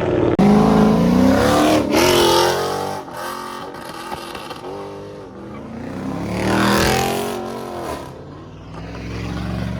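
Car engines revving at a car meet: loud climbs in pitch in the first three seconds, then another swell that rises to a peak about seven seconds in and fades away.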